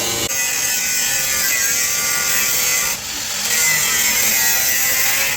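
A power tool cutting or grinding sheet steel: a steady, loud, hissy whine that breaks off briefly about three seconds in, then comes back louder.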